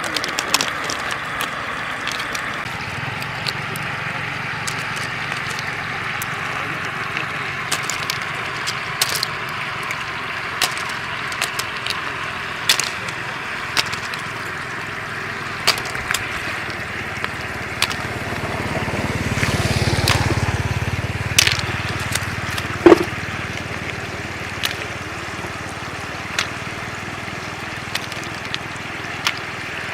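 Shallow floodwater flowing steadily, with scattered sharp clicks and taps throughout. A louder, deeper swell comes about twenty seconds in.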